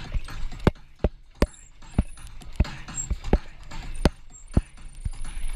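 Mountain bike rattling over a rough trail: irregular sharp knocks and clatter from the bike and tyres hitting rocks, over a steady rumble of riding noise.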